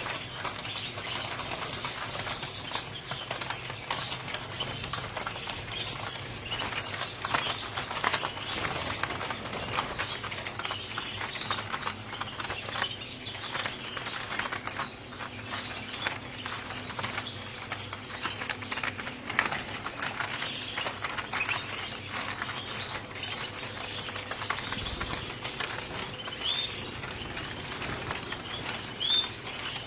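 Gloster canaries fluttering their wings, with many small clicks and a few short chirps near the end.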